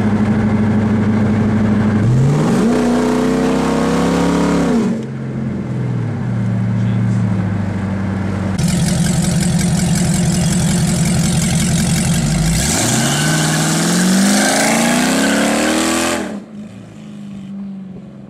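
Straight-piped 5.7L Hemi V8 of a Dodge Charger, running through short-tube headers and catless midpipes dumped under the car, heard from inside the cabin with the windows down. It drones steadily at cruise, then twice climbs in pitch under acceleration before dropping back. A loud rushing noise sits over the drone for a few seconds in the middle.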